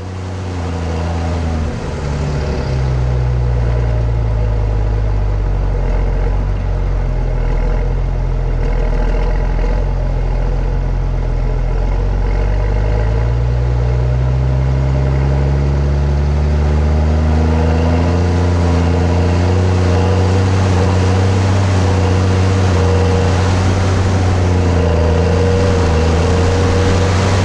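New Holland T7.210 tractor's six-cylinder diesel engine running under load while pulling a subsoiler and harrow. It swells up over the first few seconds, its pitch dips about midway, then rises again and holds steady.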